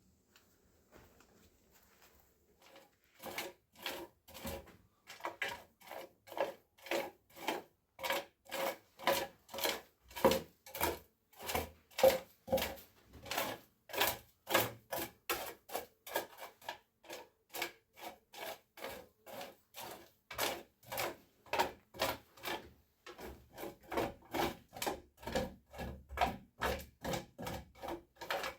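A hand tool worked back and forth in steady rasping strokes, about two a second, starting about three seconds in.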